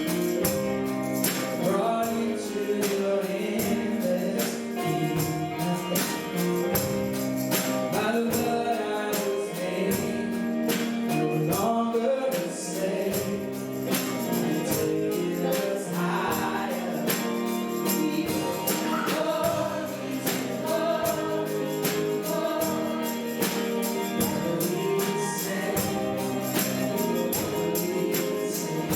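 Gospel worship song: singing voices over a band, with a steady beat of percussion hits.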